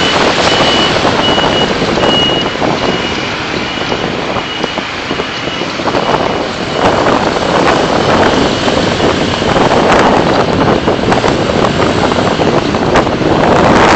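City traffic and road noise from a car's dashcam while driving: a steady rush of tyre, engine and passing-vehicle sound. A repeating high beep sounds during the first few seconds, then stops.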